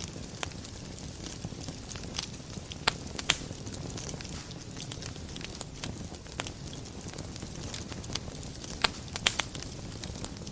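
Wood fire burning in a fireplace, crackling with irregular sharp pops over a low steady rush of flames; the loudest pops come in small clusters about three seconds in and again near nine seconds.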